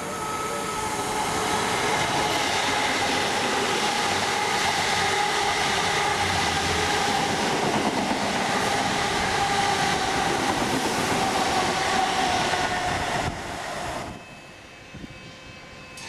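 A train passing close by: a loud, steady rush of wheels on rails with a whine running through it, which falls away suddenly about fourteen seconds in as the train clears.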